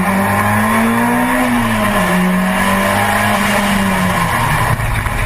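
A car at speed: a loud, sustained pitched sound that drifts slowly up and down, breaking into a rough noise about four and a half seconds in.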